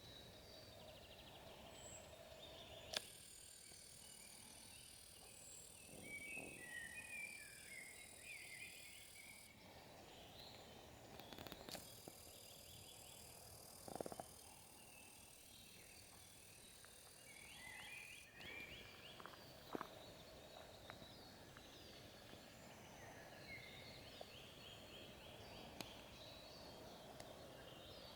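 Faint forest birdsong: several songbirds twittering in short, repeated chirps. Twice a very high, steady buzzing trill runs for about six seconds, and a few sharp clicks sound, the loudest about three seconds in.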